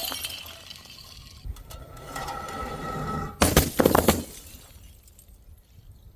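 Glass shattering on a hard surface: a quick burst of smashing and clinking pieces about three and a half seconds in, after the last of an earlier crash fades at the start.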